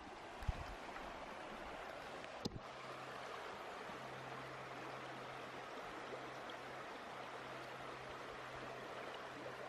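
Steady running water of a stream. There are a couple of brief knocks in the first few seconds, and a low steady hum comes in about two and a half seconds in.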